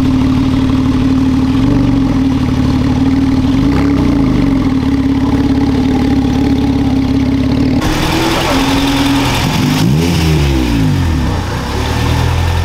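Porsche 911 flat-six engine running at low revs as the car rolls slowly away, its pitch rising and falling a few times with light throttle. About two thirds of the way in, the note changes and a second car's engine is heard, revving up and down.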